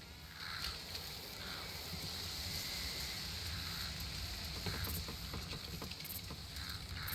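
Summer outdoor ambience. A steady high insect buzz starts about half a second in and fades after four seconds, then comes back near the end. A low, even rumble runs underneath, with a few short soft calls spaced through it and a scatter of light ticks in the middle.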